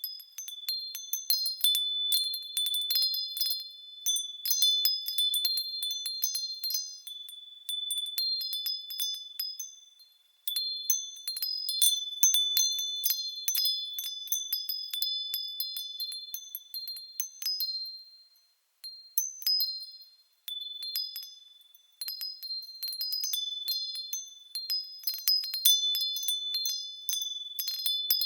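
Japanese furin wind chimes ringing in the breeze: quick high tinkling strikes that ring on, coming in irregular flurries. The ringing dies almost away about ten seconds in and twice more around eighteen to twenty-two seconds before picking up again.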